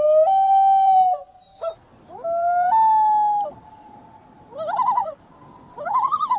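Loon calling: long, clear wailing notes that jump upward in pitch, followed near the end by two short, rapidly wavering phrases.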